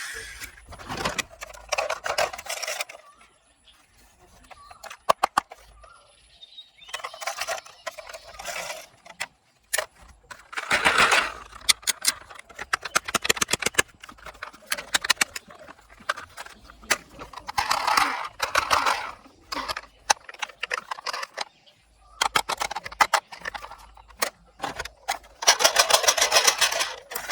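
Plastic toy vehicles being handled and played with: repeated sharp clicks and knocks, with bursts of rattling and scraping every few seconds.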